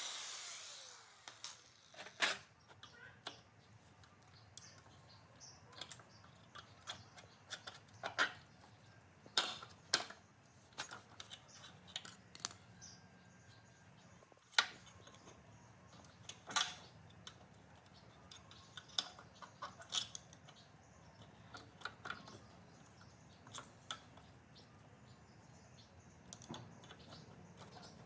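A louder tool noise dies away in the first second. Then come scattered light clicks and taps at irregular intervals, a few every couple of seconds: small hard parts being handled and set down during work on a generator.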